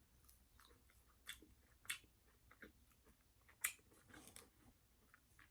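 Faint close-up chewing of a fry dipped in gravy: soft wet mouth clicks and smacks, with a few slightly louder bites.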